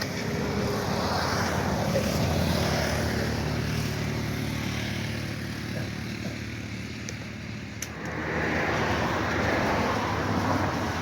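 Motor vehicle noise: a steady low engine hum with a rushing swell in the first few seconds and again near the end.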